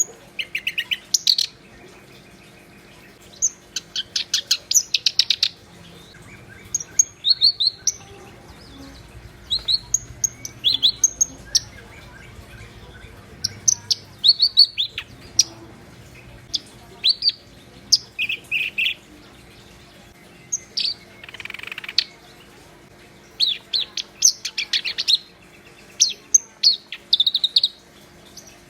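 Black-browed reed warbler in full song, giving phrases of rapid chirps and trills about a second long, separated by short pauses. A faint steady hum runs underneath.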